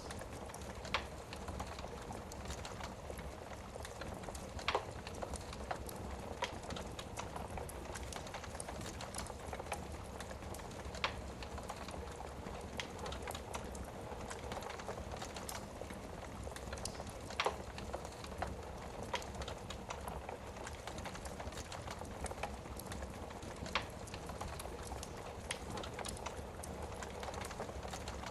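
Wood fire burning in a fireplace: a steady bed of burning noise with constant small crackles, and louder sharp pops every few seconds.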